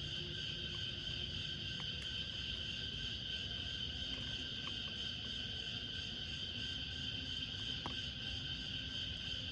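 A steady, high chorus of insects trilling without a break, over a low, even rumble.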